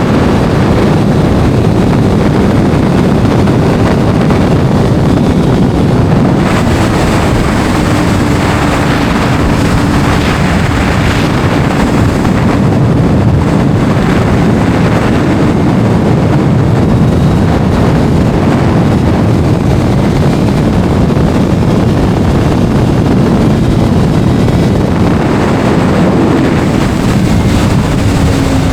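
Kawasaki inline-four sport motorcycle riding at speed, its engine note faint under heavy wind noise on the microphone.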